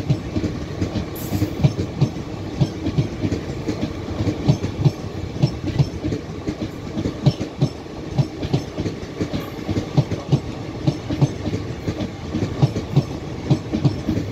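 A train of covered automobile-carrier wagons rolling past close by. The wheels make a steady, rhythmic clickety-clack over the rail joints above a continuous rumble.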